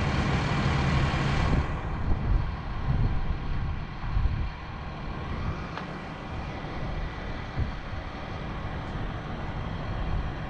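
Crane's engine running steadily, a low rumble that is a little louder and hissier for the first couple of seconds, with wind on the microphone.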